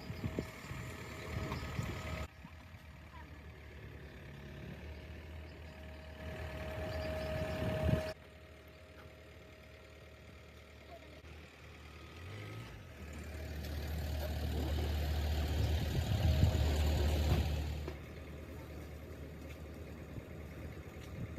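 A motor vehicle engine running in several cut-together clips. It is loudest for a few seconds past the middle and drops off suddenly.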